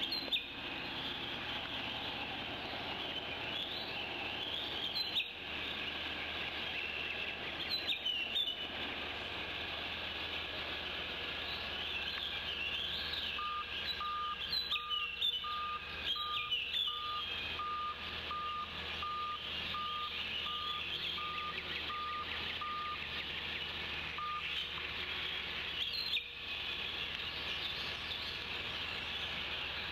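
Steady rain falling on the nest tree, with birds chirping now and then. About a third of the way in, a distant electronic beeper starts, about one and a half beeps a second at a single pitch, and runs for about ten seconds.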